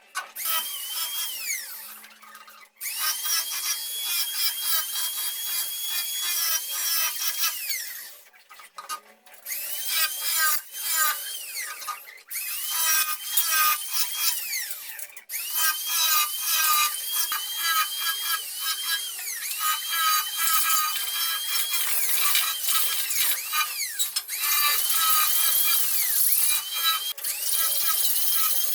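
Power tool working wood, its whine dipping and rising repeatedly as it bites, with a few brief pauses between passes.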